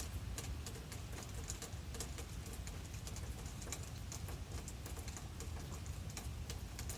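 Irregular taps and ticks of rain pattering and dripping, over a low steady rumble.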